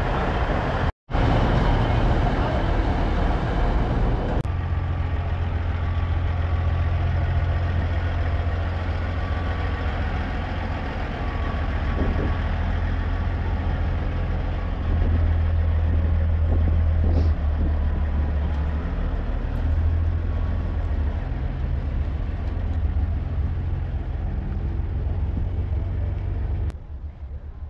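Heavy diesel truck engines running with a steady low drone and no clear revving. The sound breaks off briefly about a second in and changes abruptly a few seconds later, as at an edit.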